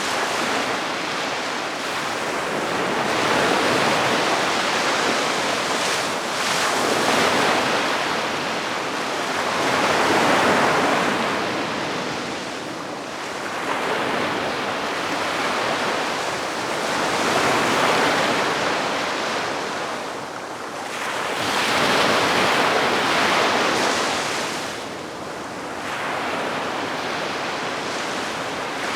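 Calm sea waves breaking and washing up the beach, the sound swelling and ebbing in slow surges every three to four seconds.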